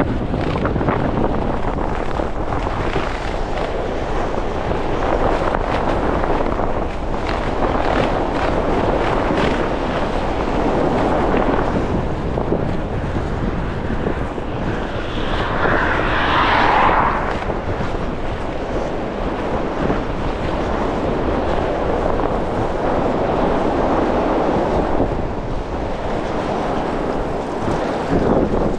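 Strong gusty wind buffeting the microphone: a continuous, fluttering roar. About halfway through, a louder rushing swell rises for two or three seconds and then fades.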